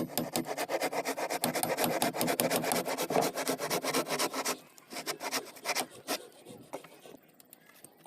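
A hand tool scraping wood in quick, even strokes, several a second, stopping about four and a half seconds in, after which only a few faint scattered scrapes remain.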